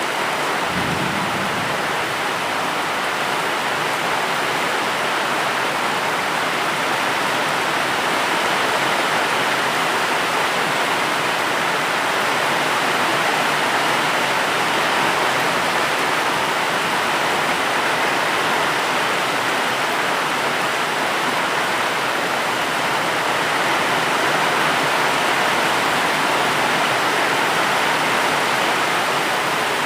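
Steady rain falling, an even unbroken hiss with no distinct drops, thunder or other events standing out.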